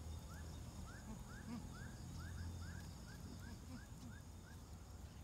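A bird calling: a faint run of short rising chirps, about three a second, over a steady low rumble.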